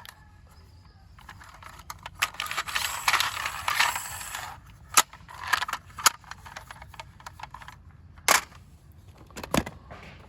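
Plastic toy vehicles being handled: a stretch of rattling and rummaging, then several sharp clicks and knocks as the toys are picked up and set down.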